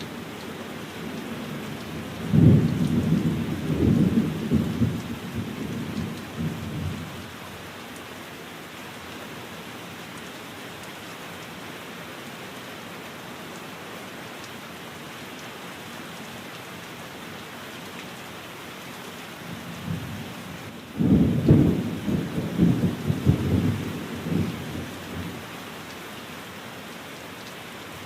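Steady rain with two rolls of thunder: one starting about two and a half seconds in and rumbling for some four seconds, and another about twenty-one seconds in, lasting a similar time.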